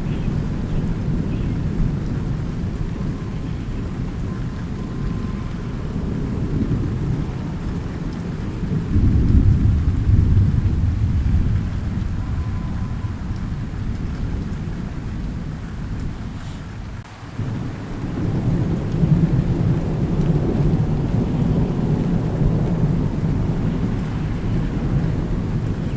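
Thunderstorm: steady rain under rolling thunder. The low rumble swells about nine seconds in, fades, drops away briefly near seventeen seconds, then swells again.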